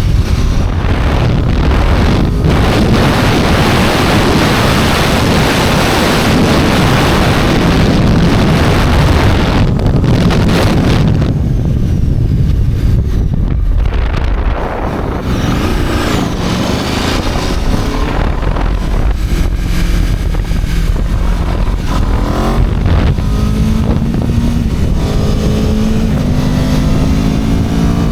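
Aprilia RSV4 superbike's V4 engine at high speed with heavy wind rush, easing off about eleven seconds in, then accelerating again with the engine pitch climbing in repeated steps as it runs up through the gears.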